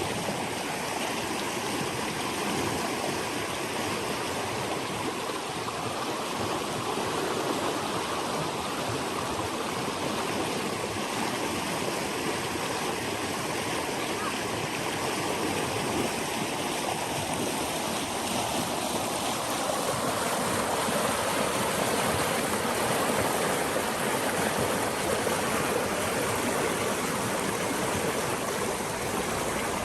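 Forest stream flowing, a steady rush and babble of water that swells slightly about two-thirds of the way through.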